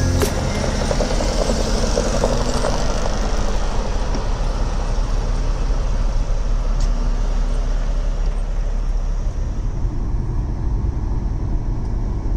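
Semi truck running: a steady low rumble with an even hiss over it, a little rougher in the first few seconds.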